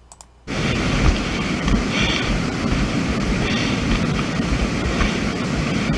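Wind blowing across the camera's microphone: a rough, rumbling noise that starts abruptly about half a second in and keeps on steadily.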